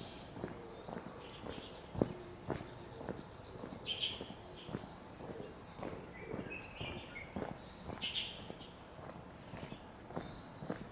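A walker's footsteps at about two steps a second, with birds calling: a quick run of repeated high chirps in the first few seconds, then scattered single calls.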